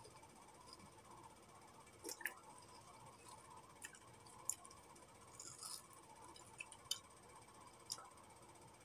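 Quiet, irregular wet mouth clicks and smacks from biting and chewing a soft banana, about eight in all, over a faint steady hum.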